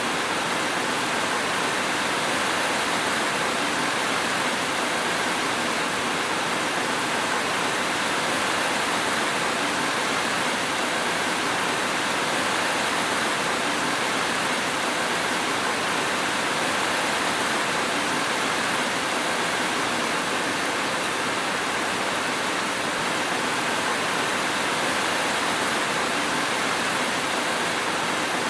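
Steady rain: an even, unbroken hiss with no single drops, thunder or change in level standing out.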